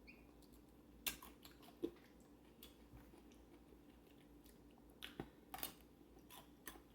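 Someone biting and chewing a raw baby cucumber: a few short crunches scattered among quiet chewing.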